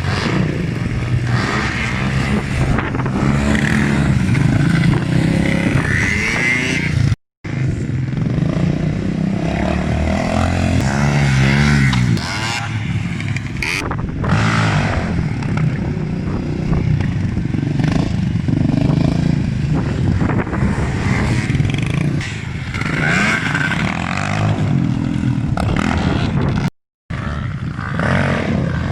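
Motorcycle and quad engines revving and running past, their pitch rising and falling repeatedly. The sound cuts out abruptly twice for a moment.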